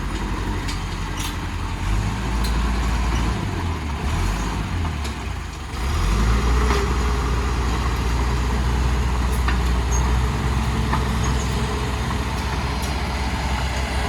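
Heavy earthmoving machine's diesel engine running. Its revs shift up and down from about two to six seconds in, then hold steady and a little louder, with a few scattered clicks.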